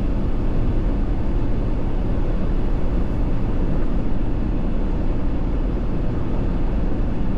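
Steady road noise inside a moving car's cabin: tyres on wet pavement and engine noise, even and unbroken.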